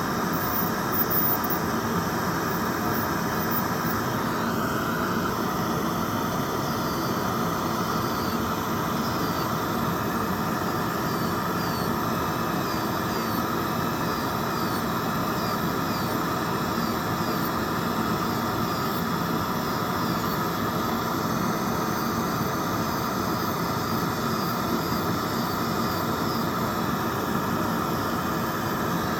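Electric nail drill (e-file) running at a steady speed while removing gel nails, a constant whine over a steady hiss.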